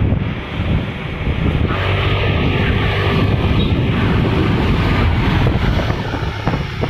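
A motor vehicle's engine running steadily, with wind noise on the microphone.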